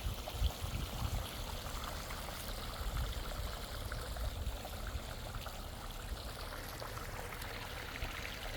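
Pondless waterfall running: a steady sound of water pouring and trickling.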